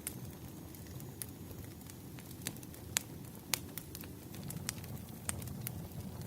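Burning firewood crackling: a steady low rush from the fire with scattered sharp pops and snaps, a few louder ones about halfway through.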